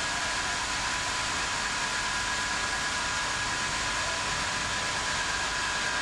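Industrial band saw line running steadily: an even hiss with two faint, steady high tones.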